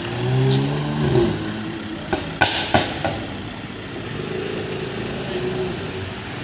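Street traffic with a car engine running past in the first second, then a couple of sharp knocks about halfway through.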